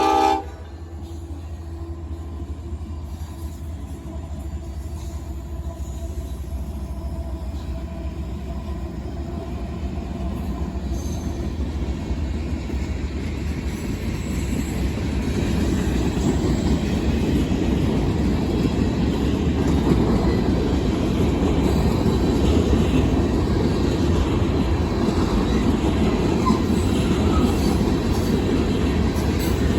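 Union Pacific manifest freight train rolling past: a steady rumble that builds over the first half and then holds. A horn blast cuts off right at the start.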